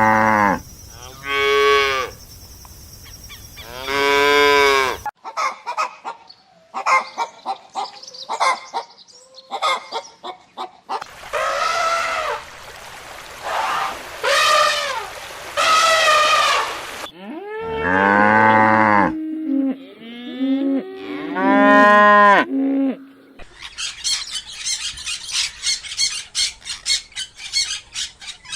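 A run of different animal calls, one after another. It opens with cattle mooing three times in the first five seconds, and another similar call comes about eighteen seconds in. A rapid, high-pitched pulsing fills the last five seconds.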